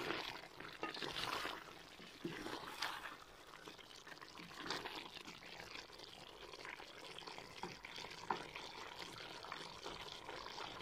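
Chicken karahi sizzling and bubbling in a metal pot, with a wooden spatula stirring and scraping the pieces in a few louder bursts in the first half.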